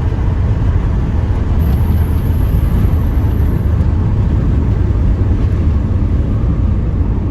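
Steady low rumble of a moving car, with no change in level.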